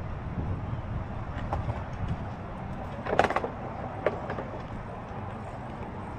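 Outdoor city ambience with a low rumble of wind on the microphone that eases after about five seconds, and a brief sharp sound about three seconds in.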